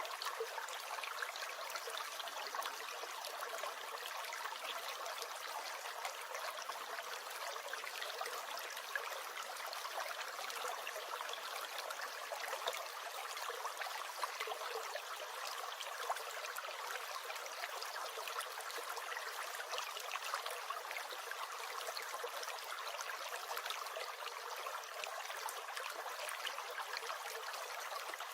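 Small stream or brook flowing and gurgling steadily, a continuous splashy rush with many small trickling ticks.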